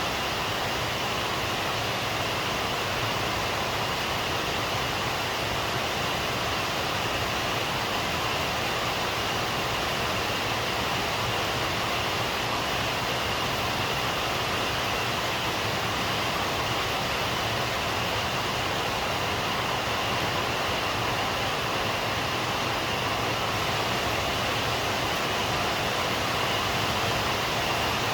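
Steady rain falling, an even hiss with no breaks and no thunder.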